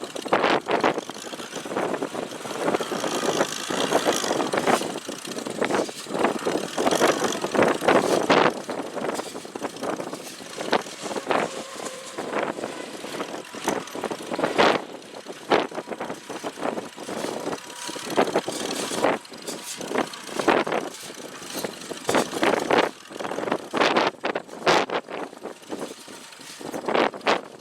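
McCormick-Deering No. 50-AW pickup hay baler at work, its International Harvester Cub four-cylinder flathead engine running steadily under the clatter and irregular knocks of the baling mechanism. Wind buffets the microphone.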